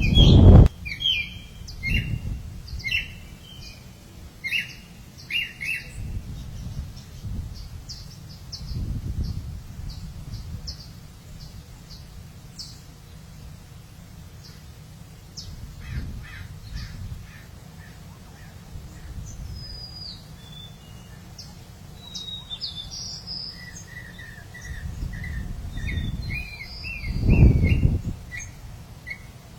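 Birds chirping and calling in quick repeated notes, with several low rumbling bursts underneath, the loudest near the end.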